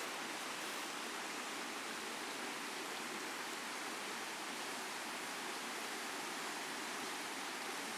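Steady rush of Bird Creek's water at the falls, an even hiss with no change in level.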